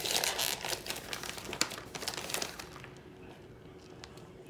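Crinkling and rustling of a bag of mozzarella cheese being handled as cheese is taken out. It is busiest over the first two seconds or so and thins out after that.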